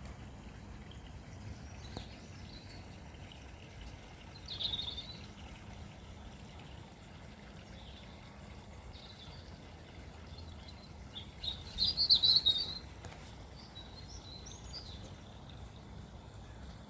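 Small garden birds chirping: a brief call about five seconds in and a louder, rapid run of chirps near the middle, over a steady low background rumble.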